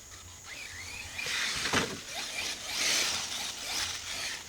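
Arrma Mojave RC truck running over the course: several swells of tyre and drivetrain noise, with a knock about a second and a half in.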